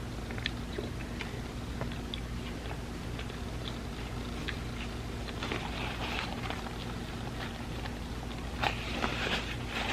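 Close-miked eating of an ice cream sandwich: soft wet chewing with small mouth clicks, growing busier about halfway through, with a sharper bite near the end. A steady low hum sits underneath.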